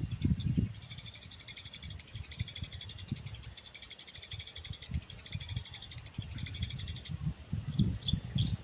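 Fast, high-pitched chirping from small animals, pulsing evenly and steadily, with low rumbles from wind on the microphone at the start and again near the end.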